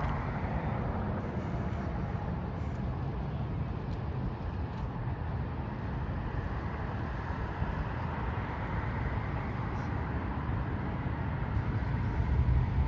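Steady low outdoor rumble with no distinct events, strongest in the low end: street background noise picked up by a handheld camera's microphone.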